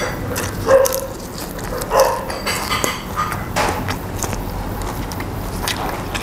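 Close-miked chewing and crunching of fresh raw herbs and greens, with short clicks, lip smacks and rustling of leaves being handled.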